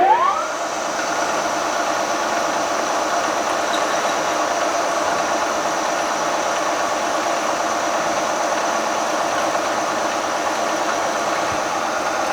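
Milling machine spindle reaching speed about half a second in with a rising whine, then running steadily with a rattling hum while drilling into a hardened steel crankshaft for heavy-metal balance weights.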